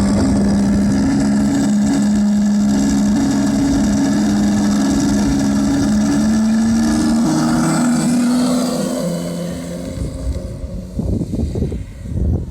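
Radio-controlled P-51 Mustang model's onboard sound system playing a piston-engine drone, steady in pitch with small steps up and down, that fades after about nine seconds. A gusty rumble follows near the end.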